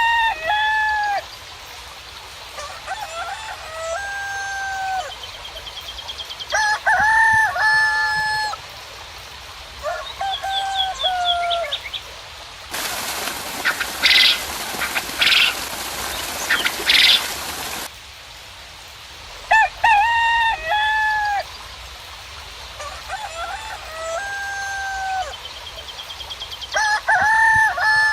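Roosters crowing again and again, several crows in turn at different pitches, with a small bird's short rising trills between them. About halfway through, a stretch of hiss about five seconds long carries three loud, sharp calls.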